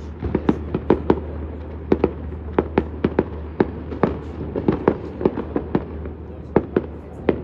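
Fireworks display: an irregular, rapid series of sharp bangs, several a second, over a steady low hum.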